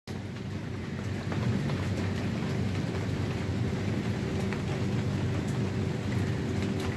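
Steady rain falling on a swimming pool and wet paved deck: a dense, even hiss with a low rumble and scattered drop ticks.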